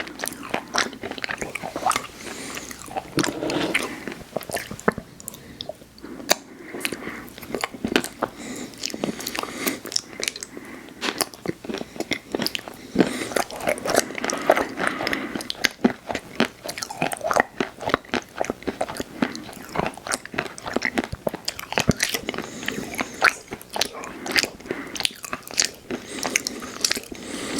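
Close-miked ASMR eating sounds: big bites and chewing of ice cream treats and cookies, with dense crunching and sharp mouth clicks throughout.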